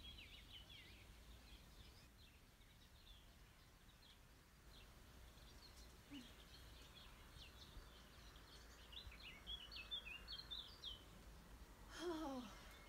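Faint birdsong: scattered high chirps of small birds, with a quicker run of chirps about nine to eleven seconds in. Near the end comes a brief falling voice sound.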